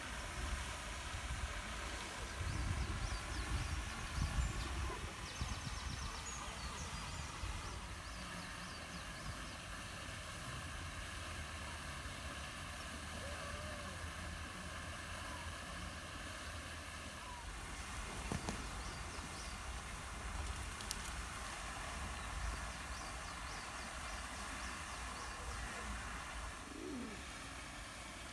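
Outdoor ambience: small birds chirping in quick high runs, over a steady low rumble, with a pigeon cooing near the end.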